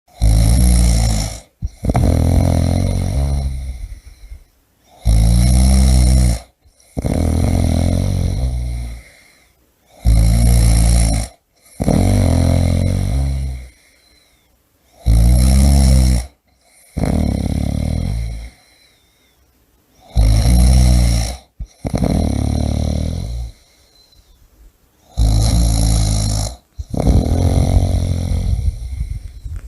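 A person snoring in a steady rhythm, about one breath every five seconds. Each breath is a loud, low, rattling snore lasting about a second and a half, followed by a longer, softer breath.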